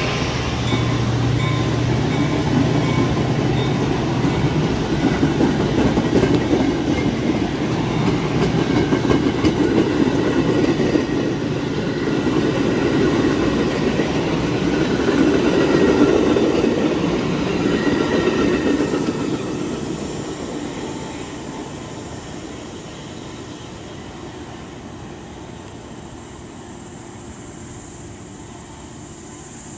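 Metra bilevel commuter train rolling past at close range, its wheels and coaches rumbling steadily on the rails. About two-thirds of the way through, the sound fades away as the train pulls off into the distance.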